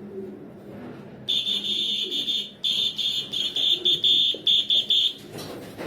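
A high-pitched whistle, held for about a second and then sounded in a string of short blasts, about three a second. It is a feeding call that young pigeons come to when they hear it.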